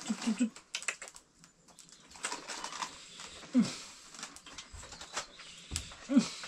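A bird's low cooing calls: three short ones at the start, then single longer calls about halfway through and near the end, over scattered light clicks and knocks.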